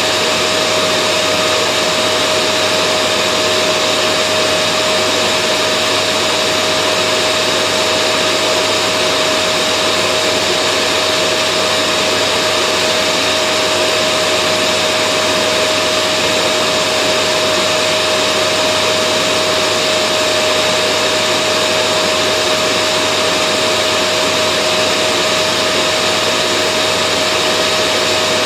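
Vacuum cleaner running steadily: a constant rushing noise with a steady hum, with no change in speed or pitch.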